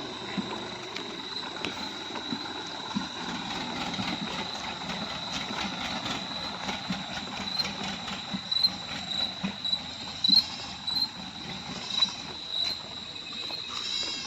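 DI 47 tractor running under load, with irregular clanks and rattles and a steady high-pitched whine; the knocks come louder and thicker in the second half.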